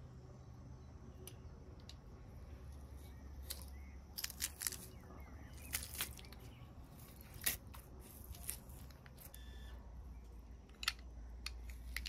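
Metal garlic press being loaded and squeezed, crushing garlic cloves: a scattering of sharp clicks and crunches, the loudest a little past the middle, over a faint low rumble.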